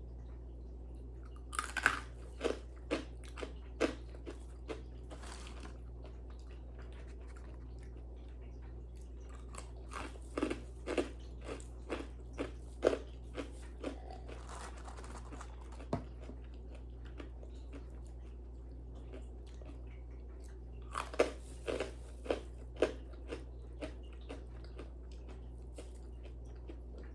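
A person biting and chewing crunchy food close to the microphone, in three bouts of crackly crunches with pauses between, over a steady low hum.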